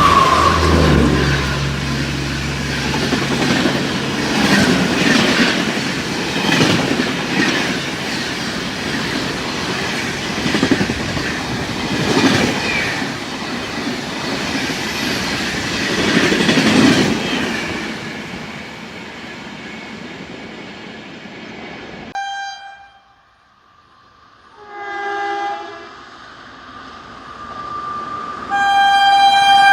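Express train running through the station at speed: wheels clattering over the rail joints in regular swells as the coaches pass, then the noise dying away. After a cut, a train horn sounds twice, first briefly, then a longer blast near the end.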